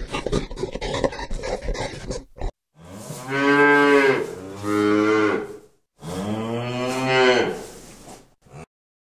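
A cow mooing twice, each moo long and drawn out, with a brief gap between them. Before that, for the first couple of seconds, comes a scratchy, clicking rustle that cuts off abruptly.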